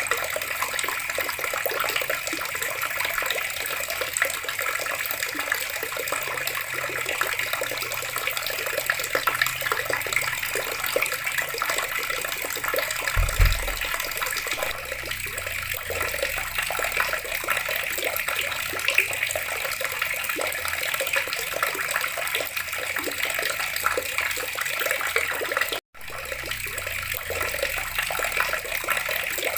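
Water running steadily from a tap. A low thump comes a little before halfway, and the sound breaks off to silence for a split second near the end.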